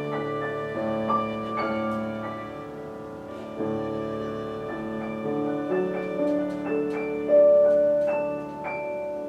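A slow classical piece on a bowed string instrument with piano accompaniment: long held bowed notes over struck piano chords. A loud held note enters about seven seconds in.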